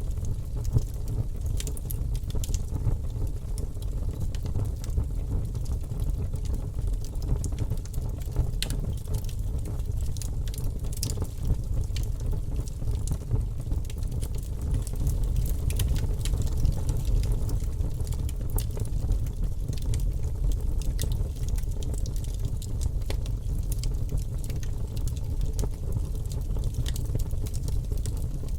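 Wood campfire burning, with frequent small crackles and pops scattered over a steady low rumble.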